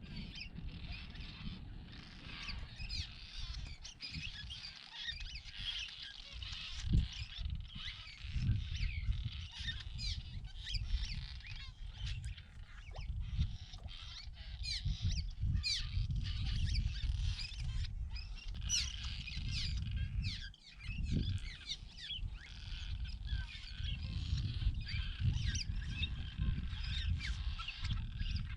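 A large swallow colony calling: a dense, continuous chatter of many short chirps, over a low rumble underneath.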